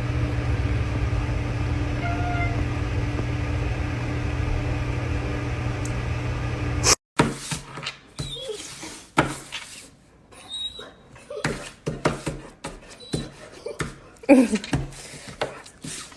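A steady low mechanical hum that cuts off abruptly about seven seconds in. It is followed by irregular knocks and rustling, with a couple of short sliding pitched sounds.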